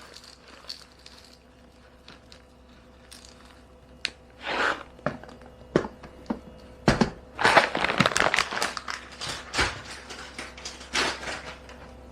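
Espresso beans clattering into an espresso machine's bean hopper, with the bean bag crinkling. The clatters and rustles come irregularly, sparse at first and busiest in the second half.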